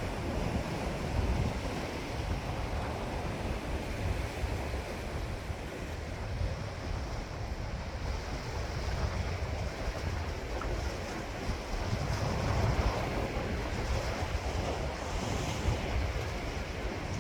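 Sea waves washing ashore in a steady surf, with wind buffeting the microphone; the surf swells louder about twelve seconds in.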